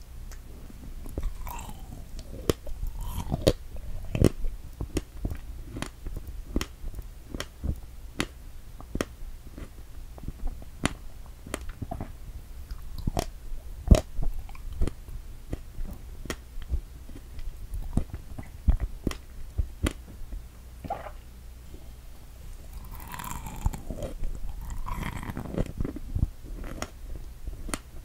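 Close-miked eating of a whipped-cream-topped strawberry: a bite, then chewing. The chewing is a steady run of sharp, wet clicks and smacks, a few a second.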